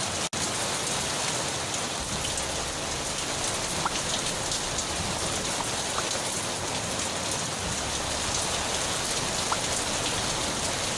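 Steady rain falling, an even hiss with a few separate drops ticking now and then. The sound cuts out for a moment just after the start.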